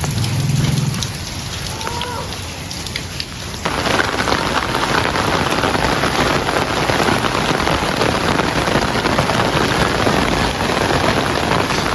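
Rain falling, lighter at first with a low rumble in the first second, then abruptly much heavier about four seconds in, a dense steady downpour on surfaces.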